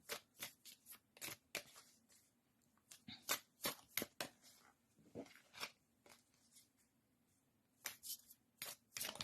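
Oracle cards being shuffled and handled by hand: faint, irregular snaps and slides of card edges in short clusters, with a pause of about two seconds past the middle.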